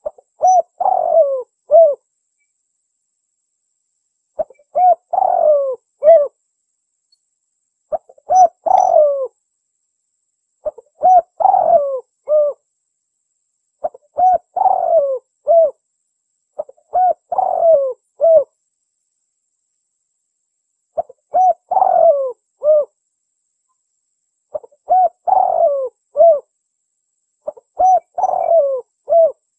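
Spotted dove (tekukur) cooing: nine phrases, each a short run of coos with one longer falling note in the middle, repeated every three to four seconds. It is the two-part "kuk dua" song of a contest bird, used as a lure call to draw wild spotted doves.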